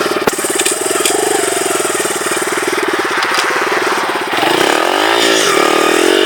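Honda XR100R dirt bike's single-cylinder engine running under way at a steady pitch, then, about four seconds in, the engine note dips and climbs again to a higher, steady pitch.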